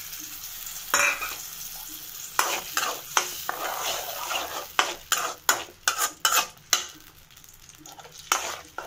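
Ginger-garlic paste sizzling in hot oil in a metal kadai while a steel spoon stirs it, with a run of sharp scrapes and clinks of the spoon against the pan starting about a second in.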